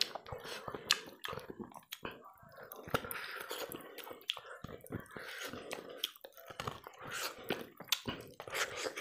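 Close-miked eating of mutton head curry with rice by hand: wet chewing with many short sharp clicks and squelches as the curry-soaked goat head and rice are handled and eaten.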